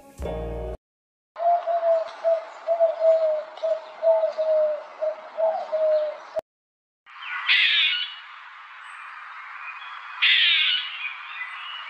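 Birds chirping in the second half, with two louder runs of high calls about three seconds apart. Before that, background music cuts off, and then a held, slightly wavering tone over a rushing hiss plays for about five seconds and stops abruptly.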